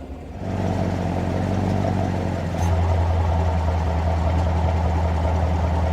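Corvette Stingray's LT1 V8 idling through the multi-mode exhaust. It gets louder about half a second in, and about two and a half seconds in the low note steps up and deepens further as the exhaust butterfly valve opens for the louder mode.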